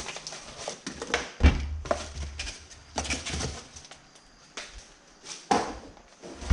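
A small motorcycle gel battery being unpacked by hand: packaging rustling, with a string of clicks and knocks and a couple of heavier thumps as it is handled and set down.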